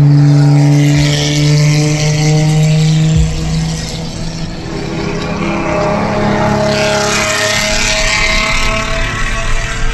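Car engine exhaust, loud and close: one engine holds a steady low note for the first three seconds, then another engine's higher note builds through the middle and fades as the car drives past.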